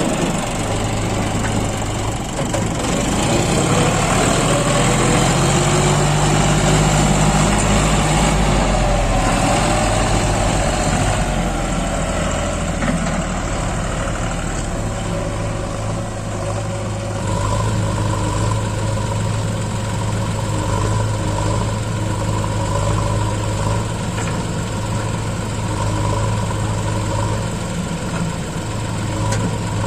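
Heavy diesel engine running, its pitch rising between about three and eight seconds in as it is revved, then settling into a steady run.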